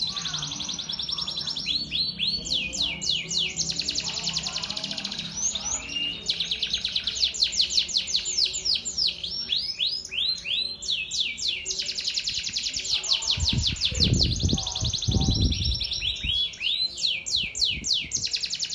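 Male canary singing a continuous song of fast trills and rapid repeated sweeping notes, the phrases changing every second or two. Low thumps sound a few times between about two-thirds and five-sixths of the way through.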